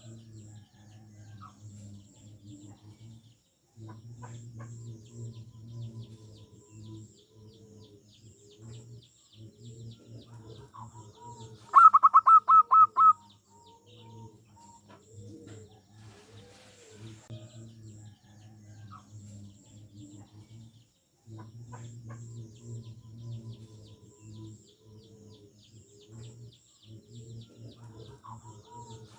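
Zebra dove (perkutut) cooing: a steady run of soft low coos, broken about twelve seconds in by one loud, rapid burst of about eight quick repeated notes lasting just over a second. Faint high chirps from other small birds sound throughout.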